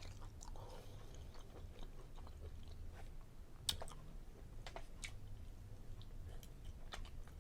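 A person chewing food, with scattered faint clicks of the mouth; the sharpest click comes about halfway through.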